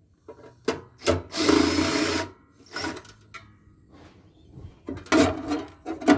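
Knocks and clatter of parts being handled and pulled during a solar inverter teardown, with a scraping rasp lasting under a second near the start and a cluster of knocks near the end.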